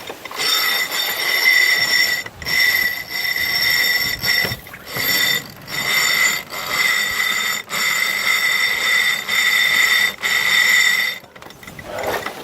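Sailboat sheet winch buzzing as its pawls ratchet while a sheet is hauled in fast, in repeated pulls of a second or two with short breaks, as the asymmetric spinnaker is trimmed during a jibe. It stops about a second before the end.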